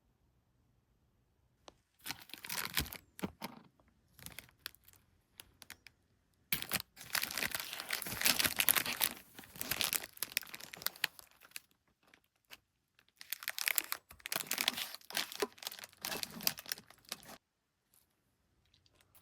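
Crinkling and tearing of packaging, handled in three stretches: a short one, a long loud middle one, then another of a few seconds.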